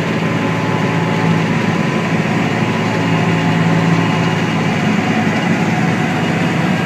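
Tractor engine running steadily at a constant pitch, with a low hum.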